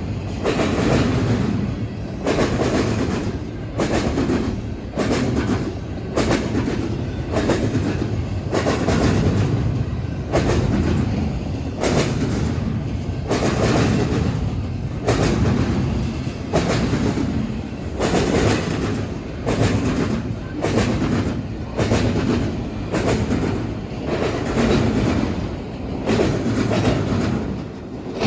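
Freight cars of a BNSF train rolling over a railroad diamond crossing. The wheels clack sharply over the crossing in repeated clusters, one swell every second or two, over a steady rumble.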